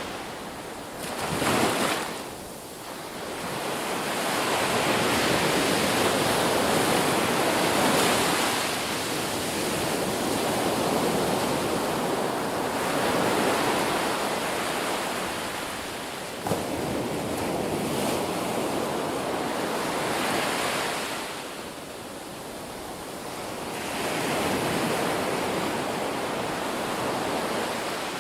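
Ocean surf: waves breaking and washing in, swelling and easing in long surges every few seconds, with one brief sharp crack about halfway through.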